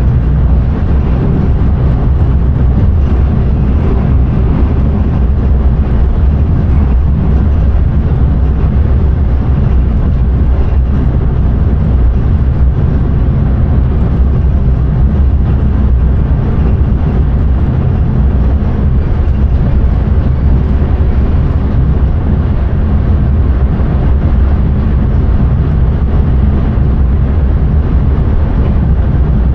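Passenger train running along the line, heard from inside the driver's cab: a loud, steady rumble of running noise with a low hum under it.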